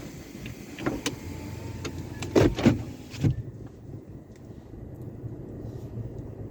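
Car wash tunnel equipment: a steady low rumble with scattered knocks and a few loud thumps, the loudest a little past halfway; after them the sound turns muffled.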